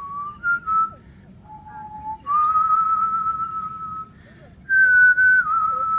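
A person whistling a slow tune of breathy, held notes. A few short notes come first, then a lower note, then a long steady note of nearly two seconds. About five seconds in, a higher note steps down and is held.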